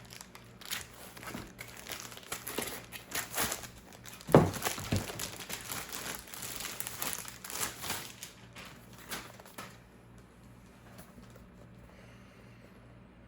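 Packaging being handled: crinkling and rustling, with a single knock about four and a half seconds in. It settles down for the last few seconds.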